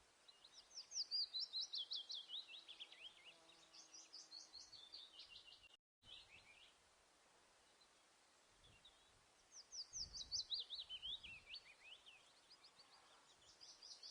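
A songbird singing fast trills of sharp, down-slurred chirps, several a second, each phrase stepping down in pitch over a couple of seconds. The phrases come in two bursts separated by a pause of about three seconds.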